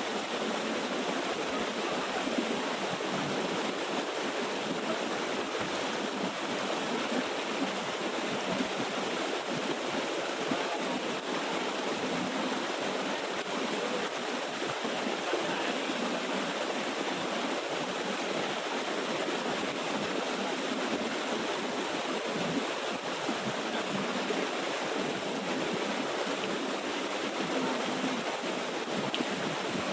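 Water of a small waterfall pouring and running over rocks: a steady, even rushing sound.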